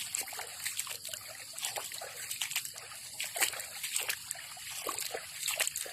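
Running floodwater trickling and splashing, with many small, irregular splashes over a steady hiss.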